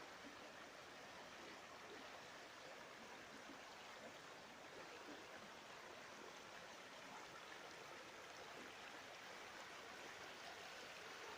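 Duratón river running: a faint, steady rush of flowing water with small flecks of burbling.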